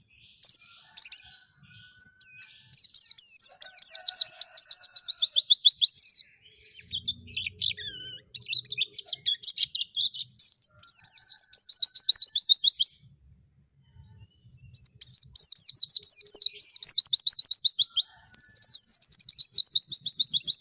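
White-eye (pleci) singing in long, fast twittering phrases of rapid, high, falling notes. Three long runs are separated by short pauses, about six seconds and thirteen seconds in.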